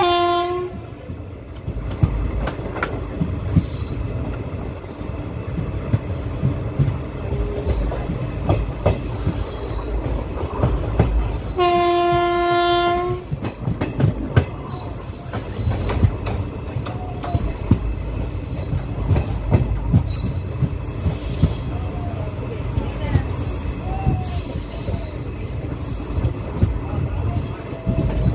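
Passenger train running, heard from aboard: a steady wheel-on-rail rumble with clacking over rail joints and a few short wheel squeals. The WAP-4E electric locomotive's horn sounds briefly at the start, then again in one blast of about a second and a half near the middle.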